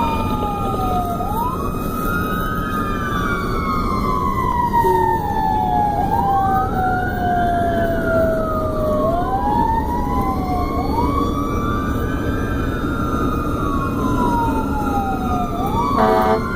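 A fire engine's siren on a wail setting, its pitch rising quickly and falling slowly about every four seconds, with a second wail overlapping out of step. Under it is the steady rumble of the truck's engine and road noise while it runs to a call.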